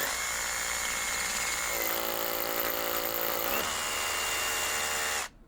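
Brushless rotary hammer drill running continuously, drilling into brick, its whine shifting in pitch a couple of times before it cuts off suddenly about five seconds in.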